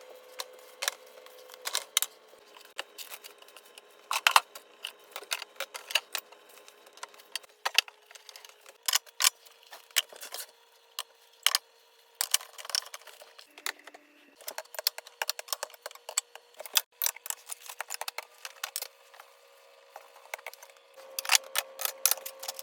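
Irregular clinks, taps and rattles of hard household objects being handled and set down, as from containers and shelves moved while cleaning out a refrigerator, over a faint steady hum.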